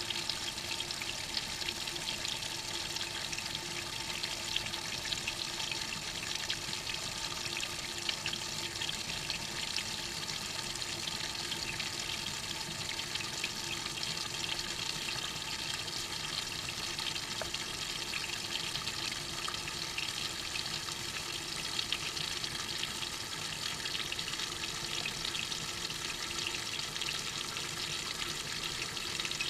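Water splashing and hissing inside a Maytag washing machine's tub, heard close up from inside the tub, a steady crackling rush with a faint hum underneath.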